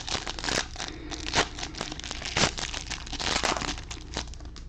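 Plastic wrapper of a Bowman baseball card hobby pack being torn open and crinkled: a quick run of irregular sharp crackles and tears.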